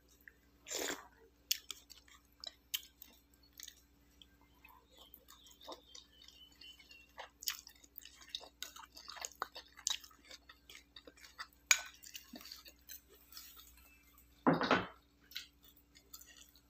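Close-up chewing of bakso meatballs, with small clicks and scrapes of a plastic spoon in a ceramic bowl of broth. Two louder short mouth or spoon sounds stand out, one about a second in and one near the end.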